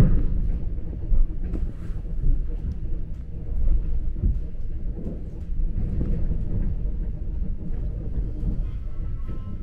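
Train running: a steady low rumble with a few short knocks.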